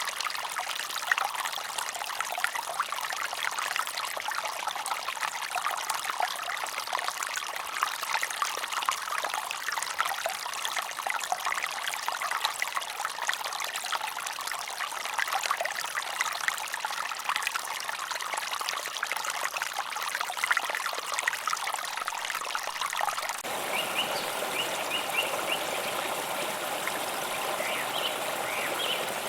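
Water trickling and splashing in a small stream, a dense patter of little splashes. About 23 seconds in the sound cuts abruptly to a fuller-sounding stretch of flowing water with a few faint, short high chirps.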